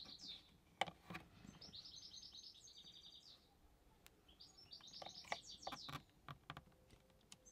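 Faint bird chirping and trilling in repeated runs, with a few light clicks and taps as a small thermometer is handled and pressed onto a wall panel.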